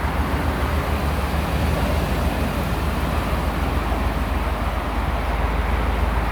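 Ford F-350 pickup truck's engine running steadily at idle with a deep, even rumble.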